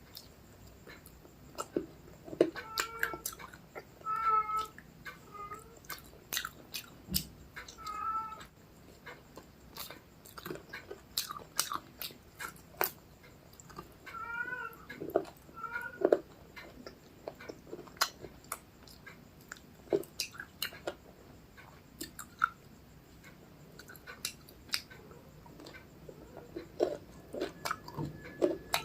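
Close-up mouth sounds of eating rice and curry: chewing, lip smacks and sticky clicks, coming irregularly throughout. A cat meows briefly several times, in clusters at about three, four, eight and fifteen seconds in.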